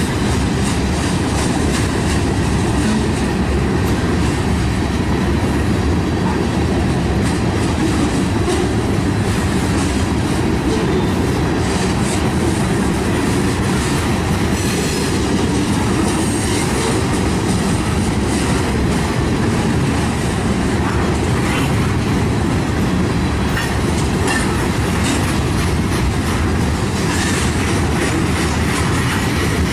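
Herzog ballast hopper cars of a freight train rolling past: a steady rumble of steel wheels on rail, with repeated clicks as the wheels cross rail joints.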